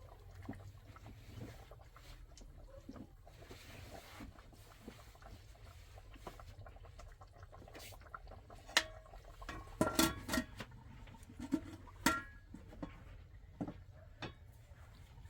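Scattered light clicks and knocks over a low steady hum, clustering about two-thirds of the way in.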